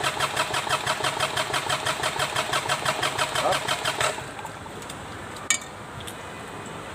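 D1462-TV diesel engine of a Sunshine L1-255 tractor being cranked over on its starter for a test start after valve seat and piston ring replacement, with an even rhythm of about eight pulses a second. The cranking stops abruptly about four seconds in, and a single sharp click follows a little later.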